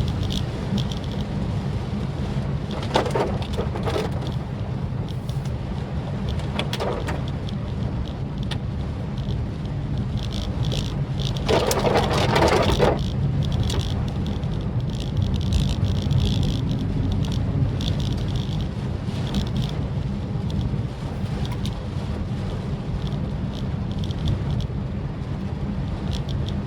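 Maruti Suzuki Swift Dzire driving on a rainy night: a steady low rumble of engine and road noise with a hiss over it. A louder rushing swell lasting about a second comes near the middle, with shorter ones earlier.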